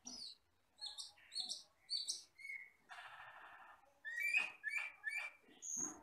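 Cucak keling (camperling), a glossy black, red-eyed forest bird, calling in a string of short, sharp chirps and whistles. About three seconds in there is a harsh, raspy note lasting about a second, followed by several louder, lower chirps.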